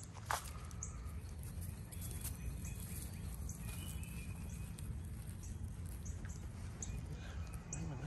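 A small bird giving short, high chirps, repeated irregularly, over a steady low rumble.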